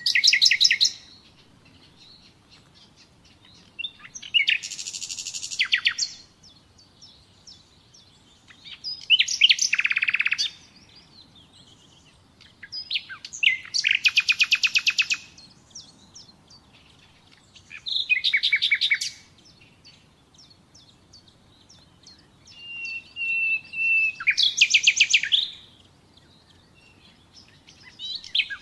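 Common nightingale singing: separate phrases of rapid repeated notes and trills, one every four to five seconds with short pauses between. About two-thirds of the way through, a phrase opens with a long, level whistle before breaking into a trill.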